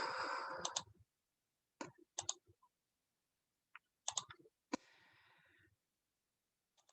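Faint, scattered computer mouse clicks, in ones and twos, with a short rustle at the start.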